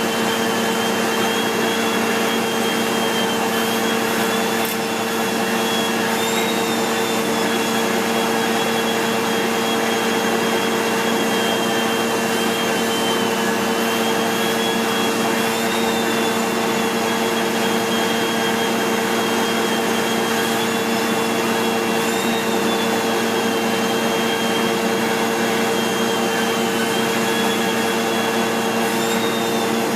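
SEBO X4 Extra upright vacuum cleaner running steadily, drawing through its stretch stair hose and turbo tool. Under a constant motor hum there is a high whine that lifts briefly in pitch every few seconds.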